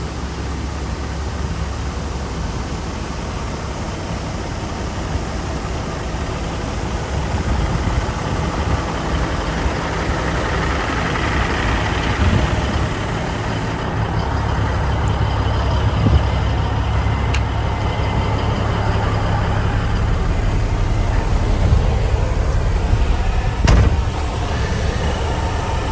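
Truck engine running under a steady low drone with road noise, heard from inside the cab, with a few knocks and jolts as it rides over rough ground. There is a sharp knock near the end.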